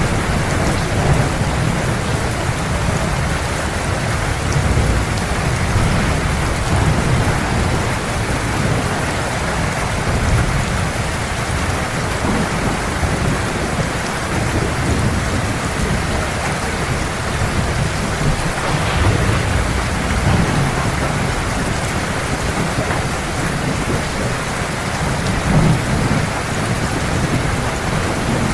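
Heavy rain falling steadily, with low thunder rumbling in repeated swells.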